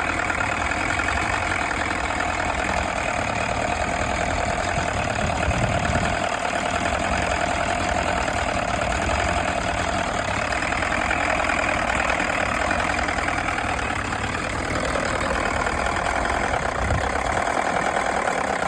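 Rebuilt Chrysler 105 two-stroke outboard motor running steadily at idle after a fresh water-pump impeller change, with a brief slight dip in its sound about three-quarters of the way through.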